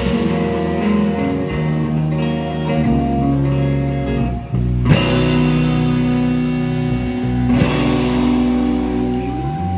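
Live rock band playing an instrumental passage without vocals. Guitars and bass hold sustained chords, with a brief dip and a sharp accent hit about five seconds in.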